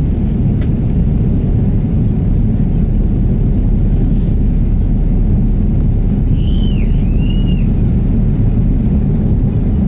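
Steady, loud, deep rumble of the Airbus A330-900neo's Rolls-Royce Trent 7000 jet engines on takeoff. A short two-note whistle is heard above it about two-thirds of the way in.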